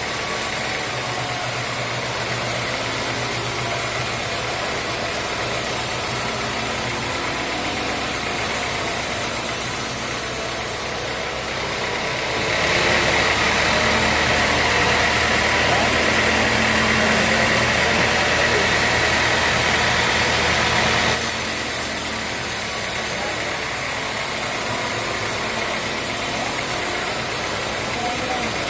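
Sawmill band saw running steadily, with a louder, higher stretch of about nine seconds in the middle.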